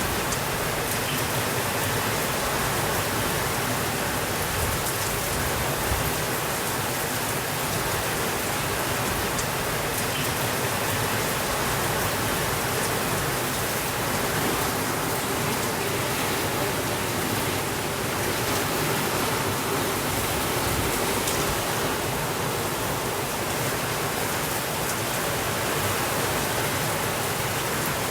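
Steady rainfall, an even hiss with a few faint drop ticks here and there.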